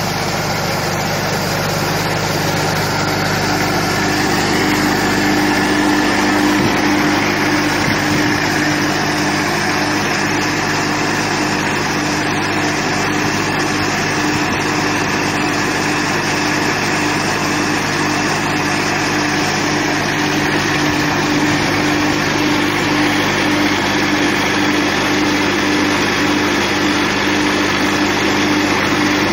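Tractor engine running at a steady speed, an even, unchanging mechanical drone.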